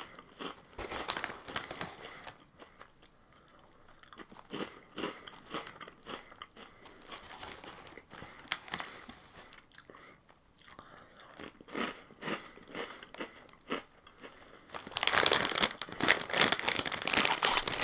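Close-miked crunchy chewing of Flamin' Hot Cheetos, in irregular crackly bites. About fifteen seconds in, the louder crinkling of the plastic snack bag being handled takes over.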